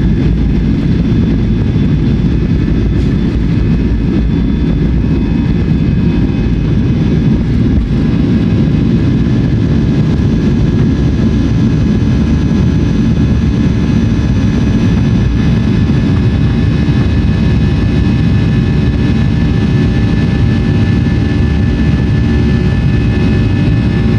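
Airliner's jet engines running at high takeoff thrust: a loud, steady rush with several high whining fan tones held above it. The engines sound hard-working.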